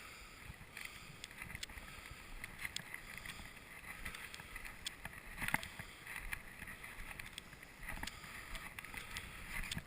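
Footsteps crunching through snow, with wind rumbling on the microphone.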